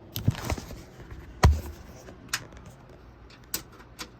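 A few scattered knocks and clicks from handling, the loudest a dull thump about a second and a half in.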